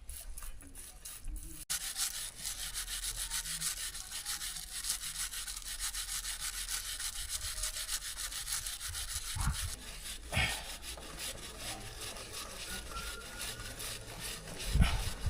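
Chain brush scrubbing a kerosene-soaked motorcycle chain in quick, even back-and-forth strokes. A few brief knocks come in about ten seconds in and again near the end.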